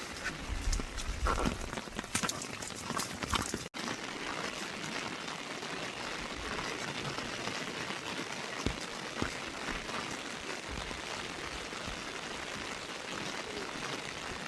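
Steady rain falling, an even hiss with scattered drips. There are a few louder knocks in the first few seconds and a brief dropout about four seconds in.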